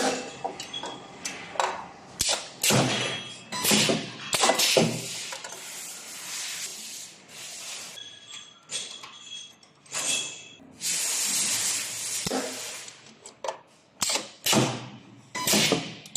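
Medium-frequency spot welding machine cycling: sharp clunks as it clamps and releases, with repeated hisses of air, one longer hiss about eleven seconds in.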